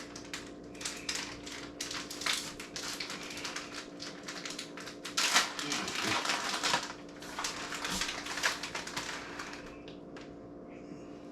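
Plastic bag of shredded cheddar cheese crinkling and rustling as it is handled and poured out, a rapid crackle of small clicks that thins out near the end. A faint steady hum runs underneath.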